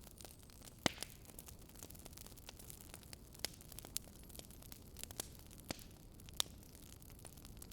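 Burning firewood crackling: irregular sharp pops, a few louder than the rest, over a faint steady low hum.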